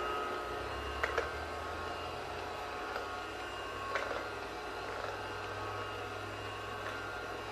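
Wi-Fi vacuum cleaner running with a steady hum, and a few light clicks about a second in and again around four seconds in.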